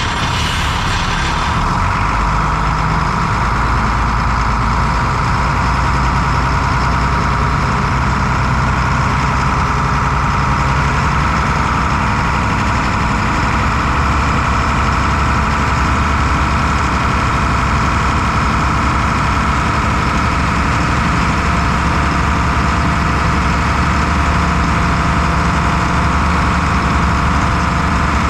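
1996 International 4900 truck's diesel engine running steadily at low speed, with a brief hiss in the first couple of seconds.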